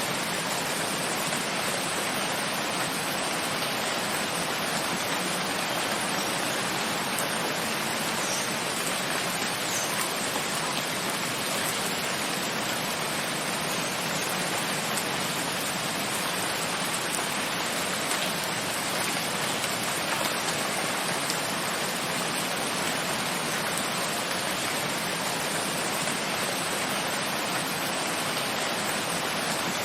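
Steady, even rain noise with no change in level, and a few faint drip ticks.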